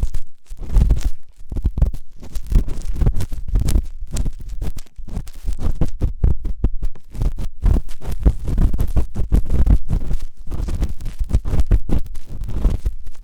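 Ear-cleaning tool scraping and rubbing hard in an ear right at the microphone: a dense stream of rapid scratches with low, muffled thumps, several strokes a second without a pause.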